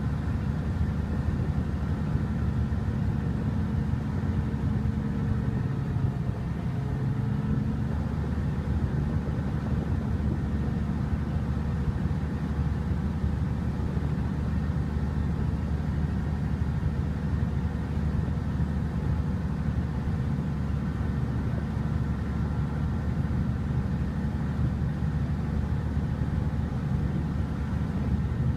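A river ferry's engine running steadily, a constant drone whose pitch wavers briefly a few seconds in before settling again.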